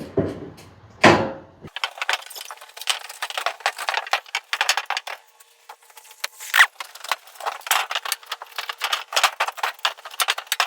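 Cloth scrubbing a metal roofing panel in rapid back-and-forth strokes, with a short lull about five seconds in. A couple of heavier knocks from handling the panel come in the first second or so.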